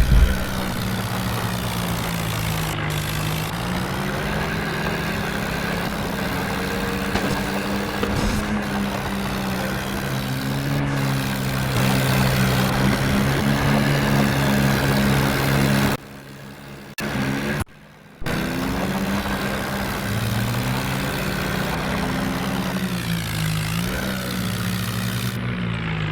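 Tractor engine running steadily, its pitch rising and falling a little with the throttle. The sound drops out briefly twice, about two-thirds of the way through.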